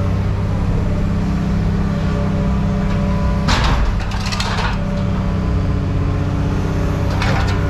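Steady engine drone with two bursts of clattering scrap metal, one about three and a half seconds in and another near the end.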